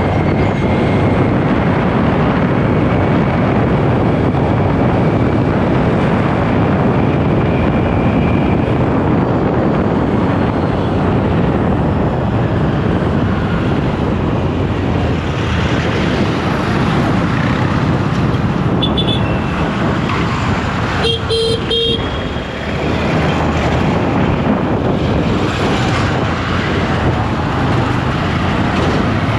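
Steady rush of wind and road noise while riding a motorcycle in traffic. A vehicle horn sounds briefly about two-thirds of the way through, after a shorter blip just before it.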